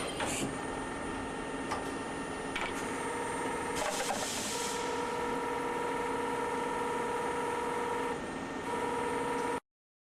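CNC lathe running: a steady machine noise with a whine that comes in about two and a half seconds in and grows stronger, a short burst of hiss around four seconds in. The sound cuts off abruptly near the end.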